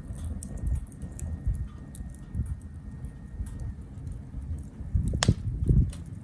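Wood fire burning in a small B6-size tabletop grill, with a low rumble of flame and steady light crackling. One sharper, louder pop comes about five seconds in.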